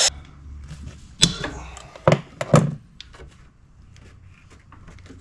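A few sharp knocks and clicks, the three loudest between about one and three seconds in, with fainter taps after.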